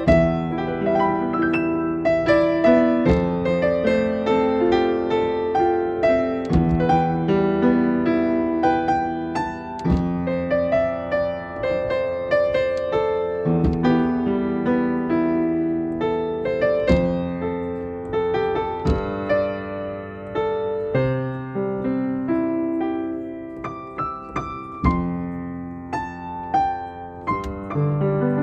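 Solo piano playing a slow, gentle piece, notes struck one after another and left to ring.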